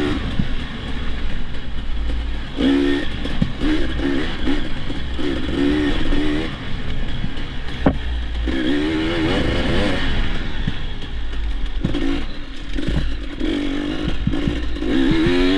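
Dirt bike engine being ridden, its pitch rising and falling over and over with throttle changes, over a steady low rumble. Scattered knocks and clatter, with one sharp click about eight seconds in.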